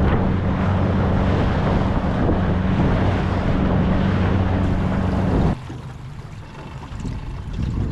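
A boat engine running steadily under way, with a low hum and wind on the microphone. About five and a half seconds in, the engine sound cuts off abruptly, leaving a quieter wash of wind and water.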